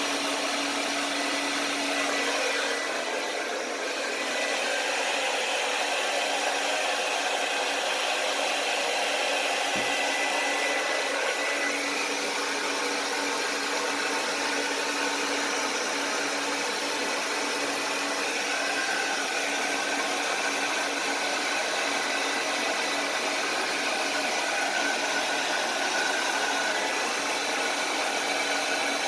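Blow dryer running steadily, a rush of air with a faint motor hum, dipping briefly about three seconds in.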